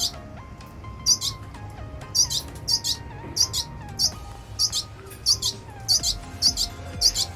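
Red siskins giving short, high chirps over and over, roughly two a second, over soft background music.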